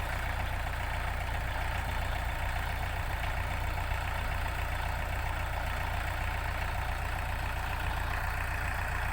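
ISEKI NT554 tractor's diesel engine running steadily, with a low, even rumble.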